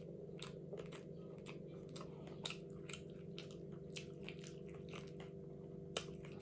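A person chewing food close to the microphone, with a run of small crisp crunches about two or three a second. A steady low hum runs underneath.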